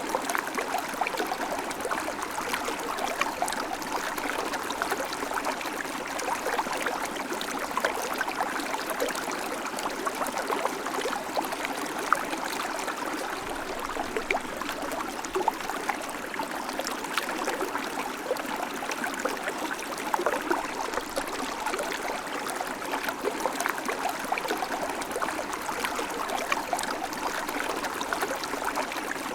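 River water flowing over stones, a steady rushing burble full of small splashes and trickles.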